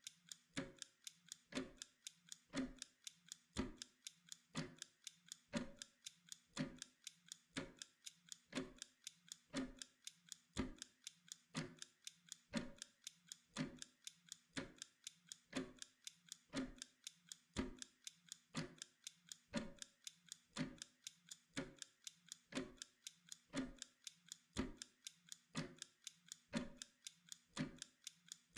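Pomodoro timer's clock-like ticking, faint, steady and evenly paced.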